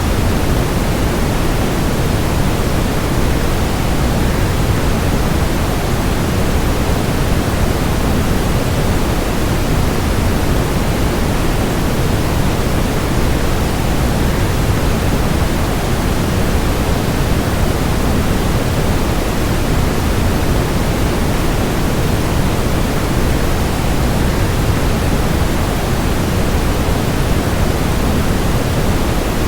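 A waterfall's steady rush of falling water blended with white noise. It is even and unchanging, heavier in the low end.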